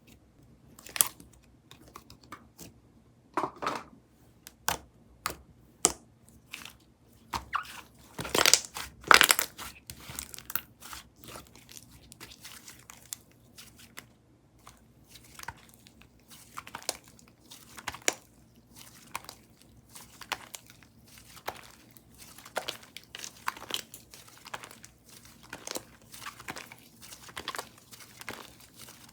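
Strawberry cookie whipped-cream slime being squished, poked and stretched by hand, giving many short clicky pops and crackles, loudest about eight to nine seconds in.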